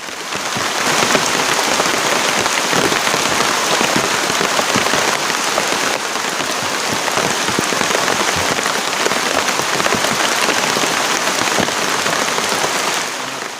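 Heavy rain pouring down in the forest: a loud, steady hiss thick with the patter of countless drops.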